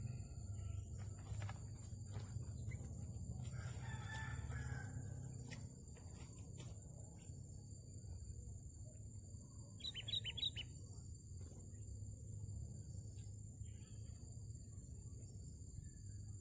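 A rooster crows faintly about four seconds in, and a quick run of short, high bird chirps comes about ten seconds in, over a steady low rumble.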